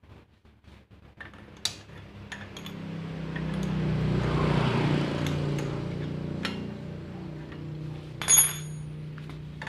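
Metallic clinks of tools and metal parts being handled, with one loud ringing clink near the end. Under them an engine sound swells and fades around the middle.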